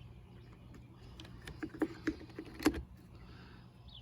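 Air cleaner housing being handled and fitted onto a Poulan Pro chainsaw: a run of light clicks and knocks, most of them between one and three seconds in, the loudest just before the three-second mark, over a steady low hum.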